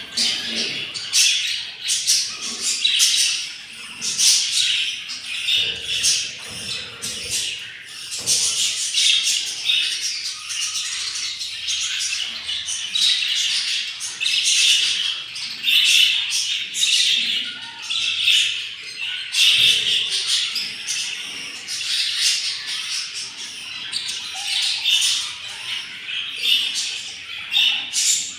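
Budgerigars chirping and squawking continuously in quick, overlapping calls.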